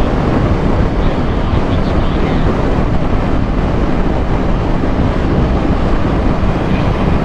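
Steady rush of wind on the microphone while riding a Kawasaki H2 motorcycle at a constant speed, with the engine and road noise running underneath and no revving.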